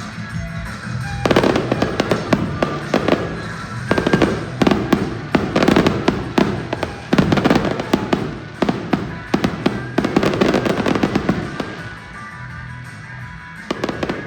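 Fireworks bursting overhead, many sharp bangs in quick succession, with music playing underneath. The bangs ease off near the end, then a few more go off just before it ends.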